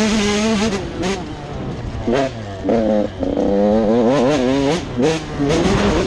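Motocross bike engines revving up and down, their pitch rising and falling repeatedly with throttle and gear changes.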